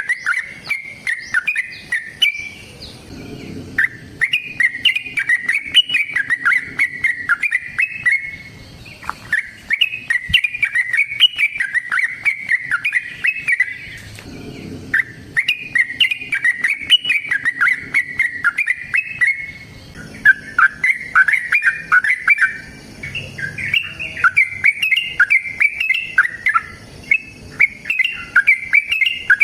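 Yellow-vented bulbul (trucukan) singing its long, rapid, chattering fighting song in runs of several seconds, with short pauses between them.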